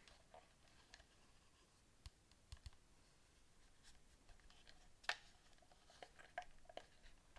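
Faint, scattered clicks and light taps of a PS4 controller's hard plastic being handled, with the sharpest click about five seconds in and a quick run of them near the end.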